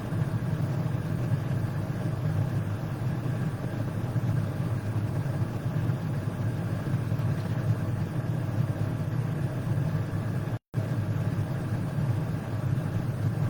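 Steady low hum of background noise, unchanging, cut by a brief total dropout of the sound about ten and a half seconds in.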